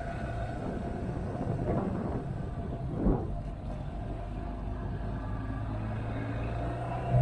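Motorcycle engine running under way with rumbling wind and road noise. There is a brief louder swell about three seconds in, and a steady low hum comes in during the last second or so.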